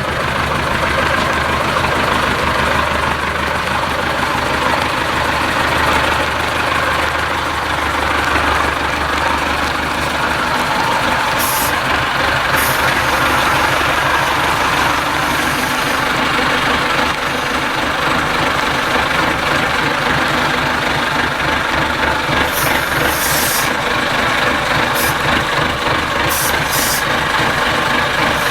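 IFA W50 truck's four-cylinder diesel engine running steadily. A low hum in it drops away about ten seconds in, and a few brief sharp clicks come through in the second half.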